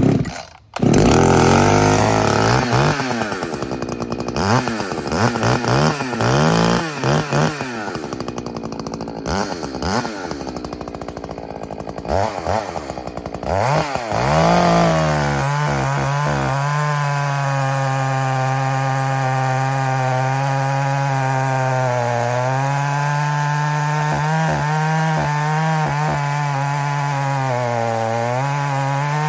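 Echo CS-620P two-stroke chainsaw with a dual-port muffler, starting up and being revved up and down over and over. It then settles into a steady high-revving run, the pitch dipping slightly a couple of times, as the 36-inch bar is worked into a poplar stump.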